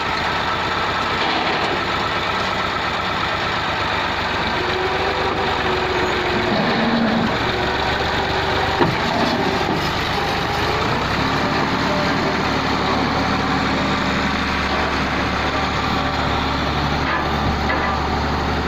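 Massey Ferguson MF 260 tractor's diesel engine running steadily. Its note shifts and its low rumble grows stronger a little past the middle, with a single sharp knock near the middle.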